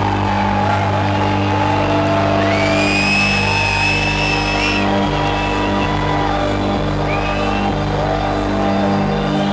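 Loud electronic dance music played live over a festival sound system: a steady bass line under sustained synth chords, with a few gliding higher synth or crowd tones over it.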